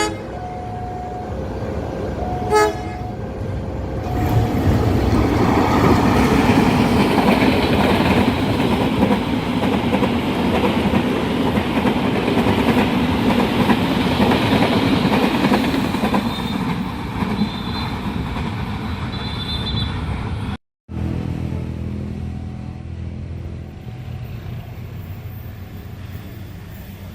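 Level-crossing warning bell ringing in two alternating tones, then a short horn toot, then a train passing close over the curved crossing with a loud rumble of wheels and carriages for about sixteen seconds, with a faint high wheel squeal near the end of the pass. After an abrupt cut, quieter rail noise follows.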